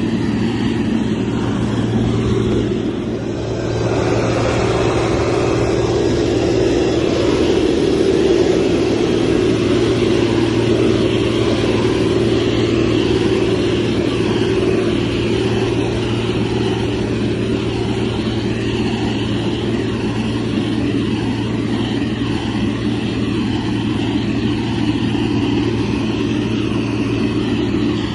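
Heavy diesel engine of a motor grader running steadily under load, a constant low drone with a slight dip about three seconds in.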